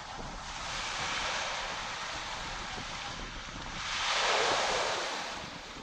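Small sea waves washing onto a sandy beach, a steady wash of surf that swells as a wave breaks and runs up the shore about four seconds in, then ebbs.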